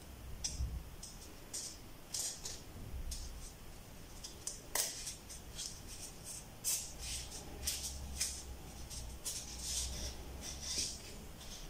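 Irregular rubbing and rustling of materials being handled and moved on a work table, a quick scrape every half second or so.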